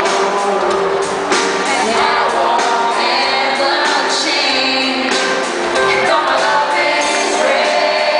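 Live pop band performance with singing over it: a repeating mid-range note pattern and regular percussion hits under a sung melody.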